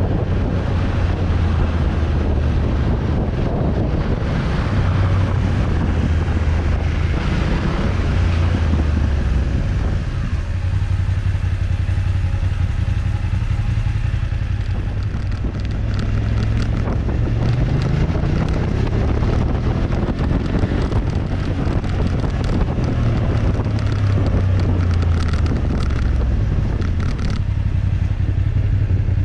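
Motorcycle engine running while riding, with heavy wind noise on the microphone. The engine note eases off around the middle, then rises again as the bike accelerates.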